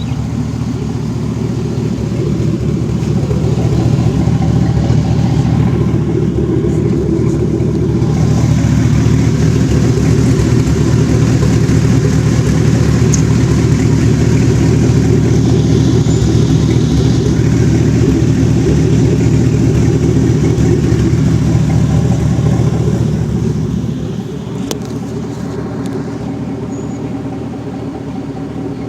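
1500HD pickup's V8 running through an X-pipe and dual Carven exhaust with a steady, deep exhaust note. It builds in loudness over the first several seconds, holds, then drops back noticeably at about 24 seconds.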